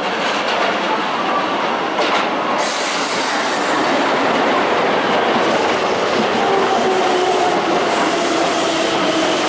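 Keisei 3700 series electric commuter train pulling into a station, its wheels clattering on the rails and getting louder as the cars pass close. From about halfway, its Toyo GTO-VVVF inverter whines in several tones that glide downward together as the train brakes to a stop.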